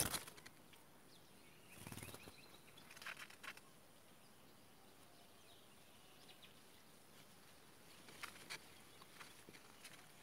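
Quiet nest sounds: a brief flutter about two seconds in as an adult woodchat shrike arrives and settles on its nestlings, then light rustling and two sharp clicks near the end.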